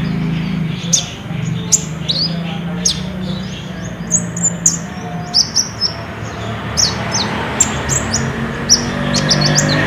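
Olive-backed sunbird (kolibri ninja) singing a rapid string of short, high, sharply falling chirps, coming thicker near the end, over a steady low hum.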